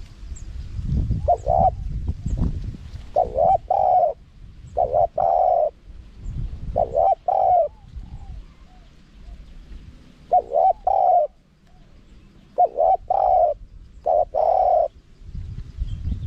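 Spotted dove cooing: a series of about seven short phrases, each of two or three deep coo notes, separated by short pauses.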